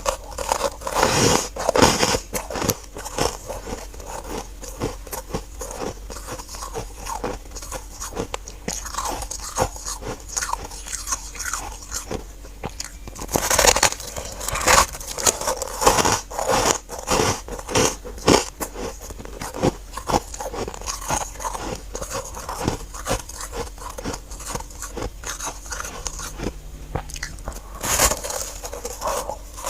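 Biting and chewing of freezer frost chunks, close to the microphone: dense crunching throughout, with bigger bites about a second in, around the middle and near the end.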